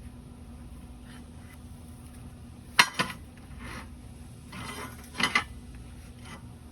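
Steel pieces being handled, with a few sharp metallic clanks and a short scrape: a pair of clanks about three seconds in, another pair near five seconds, over a low steady hum.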